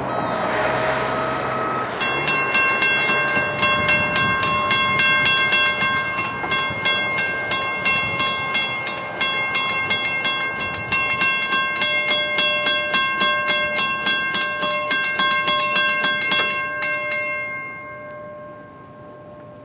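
Railroad grade-crossing warning bell ringing rapidly, about three to four strikes a second, over the rumble of a passenger train going past. The bell starts about two seconds in and stops near the end as the crossing clears.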